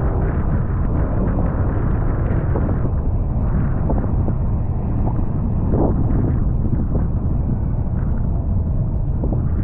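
Wind rushing over a GoPro microphone on a moving motorcycle: a loud, steady, deep rumble, with the motorcycle's running engine and road noise mixed in.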